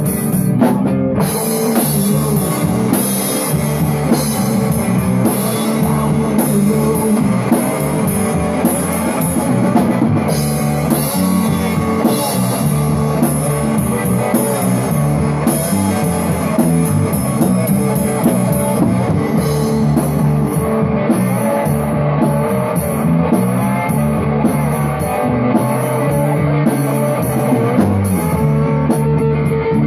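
A rock band playing an instrumental passage: electric guitar, bass guitar and a drum kit with steady cymbal hits.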